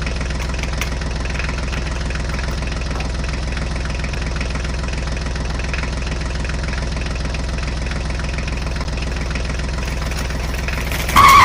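Tractor engine idling steadily with a low, even diesel-like chug. Just at the end a sudden loud crash-like noise cuts in.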